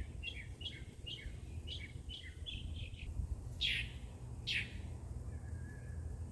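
Songbirds chirping: a quick series of short high notes for about three seconds, then two separate downward-sweeping calls. A steady low rumble runs underneath.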